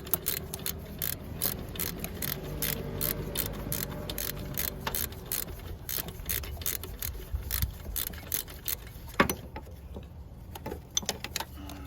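Ratchet wrench with a 12 mm socket clicking in a steady run of even strokes, about three a second, as a long alternator mounting bolt is backed out. After about nine seconds there is one louder click, then only a few scattered ones.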